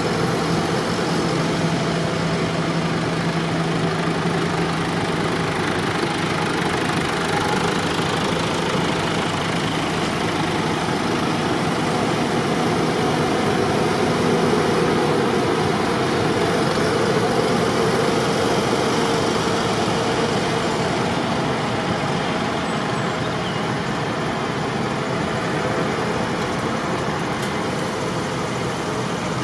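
Tractor engines running steadily, with no sudden events.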